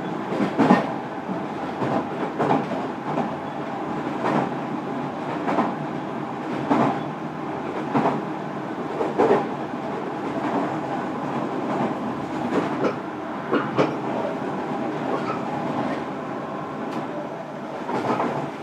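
JR Kyushu 305 series electric train running between stations, heard inside a motor car: a steady rumble of wheels on rail, with wheels clacking over rail joints about once a second, often in quick pairs.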